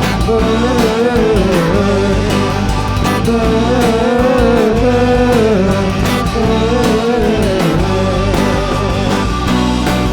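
A live rock band of drums, bass, electric guitars and keyboard playing steadily, with a bending, wavering lead melody line above.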